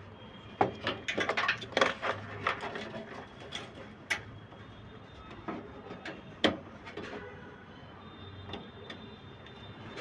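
Knocks and clicks of hard objects being handled: a quick clattering run in the first couple of seconds, then single sharp clicks about four and about six and a half seconds in.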